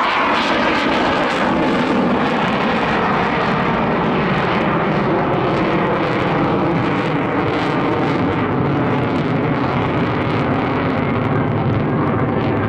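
Airplane engine noise at an airshow, loud and steady throughout.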